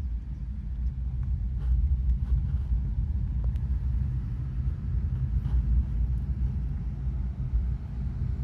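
Steady low rumble of a car driving, engine and road noise, with a few faint light clicks.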